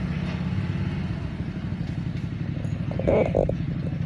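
An engine idling with a steady low rumble, and a brief voice about three seconds in.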